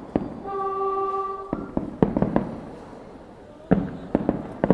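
Fireworks bursting: a series of sharp bangs, several in quick clusters of two or three. A steady pitched tone sounds for about a second near the start.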